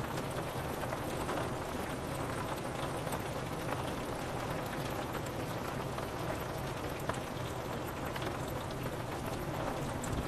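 Steady rain pattering on a window pane, with scattered individual drops ticking against the glass.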